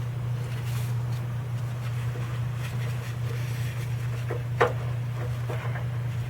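Small clicks and taps of hand work on the dipstick tube adapter nut as it is threaded on, with one sharper click about four and a half seconds in, over a steady low hum.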